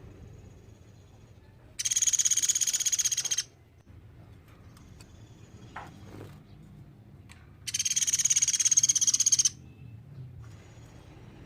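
A platuk beras woodpecker giving two loud, rapid, high-pitched rattling trills, each about a second and a half long and about six seconds apart.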